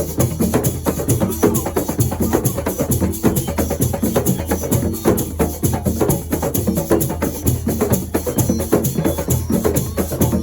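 Assiko percussion music: drums with shakers and wooden clacking keeping a fast, even, unbroken rhythm.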